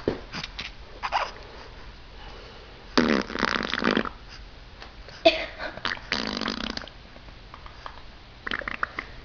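Baby farting: two long, loud farts, about a second each and a few seconds apart, with small clicks and rustles between them.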